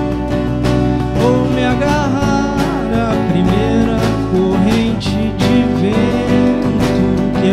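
Rock band playing a song live, with strummed guitars and a melody line gliding over them.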